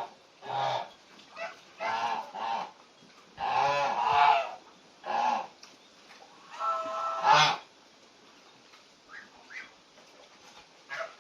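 Geese honking: a run of loud honks with short pauses between them, two of them long and drawn out, then only a few faint calls in the last few seconds.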